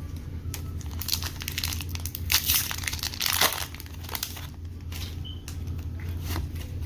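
Foil booster pack wrapper crinkling and crumpling in the hands, loudest between about two and three and a half seconds in, then lighter rustles.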